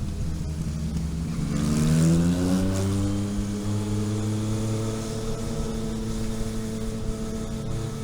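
A vehicle's engine heard onboard while driving, rising in pitch as it accelerates about a second and a half in, then holding a steady higher pitch under load until it eases near the end.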